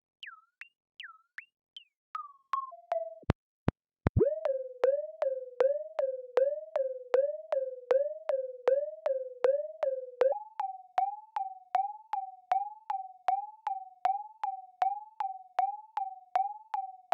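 Synthesized robot-style electronic bleeps: a few short falling chirps, then two deep downward swoops about three to four seconds in. A steady pulse of clicking blips follows at about two and a half a second, stepping up in pitch about ten seconds in.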